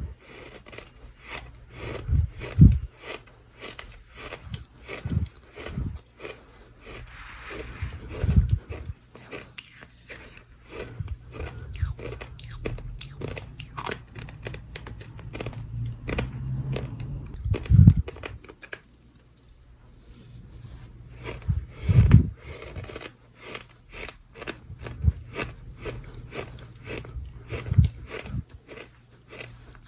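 Close-miked crunching of dry 'sand': many sharp, irregular crunches, some louder than others, with a short quiet gap about two-thirds of the way through.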